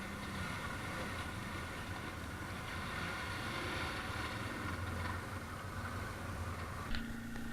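ATV engines running steadily in the background, with a short click near the end.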